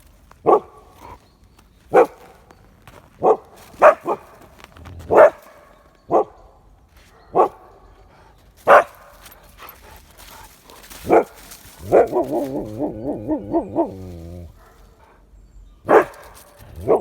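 Husky barking in single sharp barks, about one every second or so. Near the end it gives a longer wavering, yodel-like call, then barks again.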